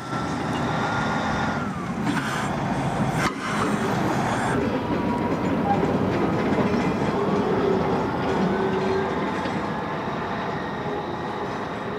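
A cement works' shunting locomotive hauling cement wagons along the track: a steady running rumble, with a couple of sharp clanks in the first few seconds.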